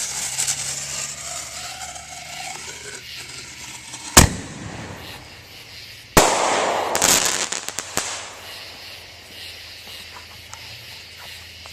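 Consumer firework mortar going off: the fuse hisses for a few seconds, the shell launches from the tube with a sharp bang about four seconds in, and it bursts overhead with a second bang about two seconds later, followed by about two seconds of crackling.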